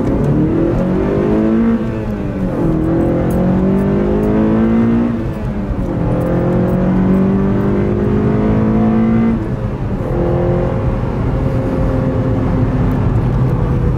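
Honda Civic Si's four-cylinder engine under hard acceleration, heard from inside the cabin: the revs climb through the gears with sudden drops at upshifts about 2, 5.5 and 9.5 seconds in, then the engine settles to a steadier note at cruising speed.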